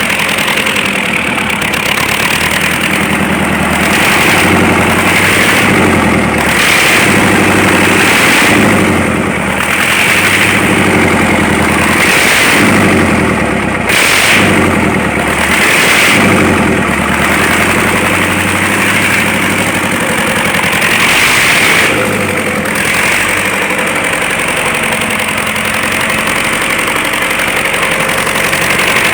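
DT-75 crawler tractor's diesel engine running just after a major overhaul, revved up and down several times between stretches of steadier idling.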